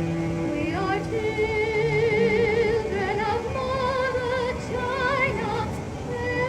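Music: a high voice sings held notes with a wide, even vibrato, entering about a second in over steady instrumental accompaniment.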